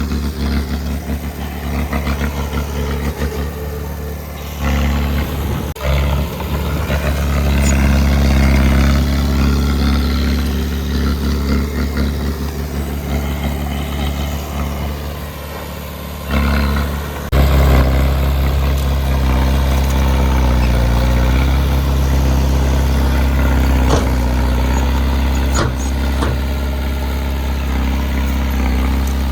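Diesel engine of heavy earthmoving machinery running steadily, its level rising and falling with load, with a sudden jump in loudness about 17 seconds in.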